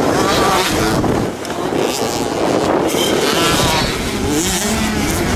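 Motocross motorcycles racing, several engines overlapping and revving up and down in pitch, with a brief drop in level just past a second in.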